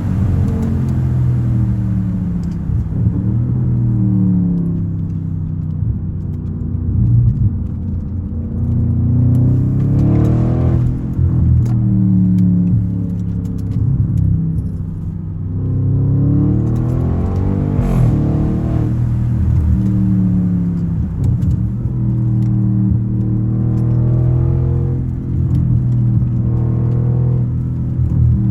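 Straight-piped twin-turbo 4.0-litre V8 of an Audi A8L under way. The exhaust note climbs and drops back as the revs rise and fall, with two clear climbs about ten and eighteen seconds in.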